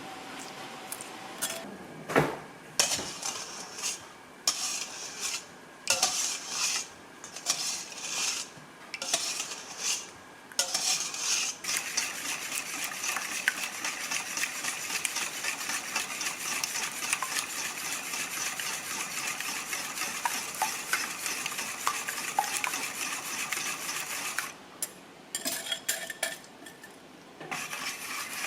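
Whisk stirring a mixture in a bowl, scraping against the bowl: short separate strokes at first, then about fourteen seconds of steady fast whisking, then a few last strokes near the end.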